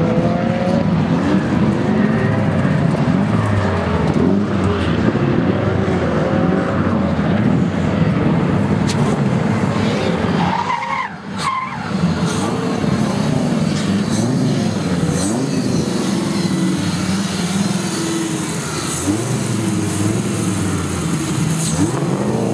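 V10-engined Nissan Silvia S15 drift car running hard, its engine pitch repeatedly rising and falling as it is revved, with tyres skidding and squealing. The engine note drops out briefly about halfway through, then picks up again.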